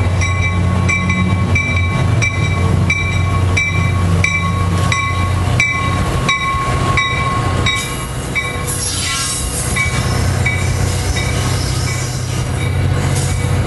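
Diesel-hauled commuter train running past close by: a steady low locomotive drone, with a regular ringing pulse about one and a half times a second. From about two thirds of the way in, added hiss and a light squeal from the wheels.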